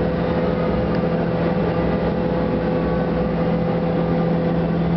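Steady machine hum: an even noise with a constant low drone and a fainter higher tone, unchanging throughout.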